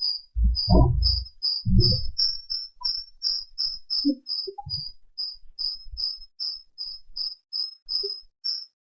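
A cricket chirping steadily in the background, short high chirps at about three a second. A couple of short low sounds come in the first two seconds, with fainter ones around four to five seconds in.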